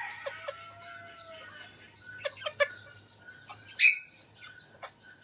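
Chickens vocalizing: a drawn-out level call over the first second and a half, a few short clucks a little past two seconds, and a sharp loud squawk about four seconds in. Small birds chirp steadily in the background.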